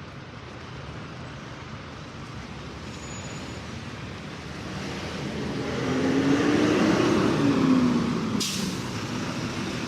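Street traffic with a motor vehicle passing close by: its engine swells and its pitch rises then falls as it goes past. There is a short sharp hiss near the end.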